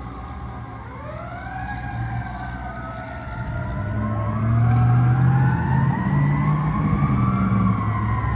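Fire truck sirens wailing, several rising and falling tones overlapping, over a low vehicle rumble. The sound grows much louder about halfway through as the apparatus comes close.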